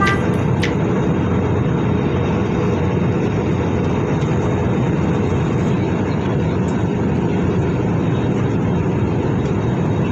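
Steady engine and airflow noise heard inside an airliner's passenger cabin in flight, with a couple of faint clicks in the first second.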